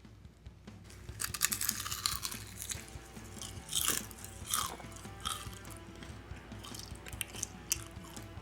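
Crisp crunching and crackling of crunchy food, a quick run of sharp crunches, with soft background music.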